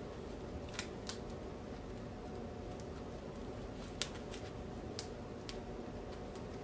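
Hands pinning hair with bobby pins: faint rustling of hair with a few light clicks, the sharpest about four seconds in, over a steady low hum.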